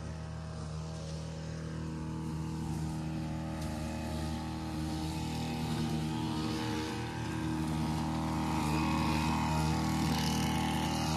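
Gas-powered string trimmer engine running steadily while cutting brush, growing louder over the last few seconds.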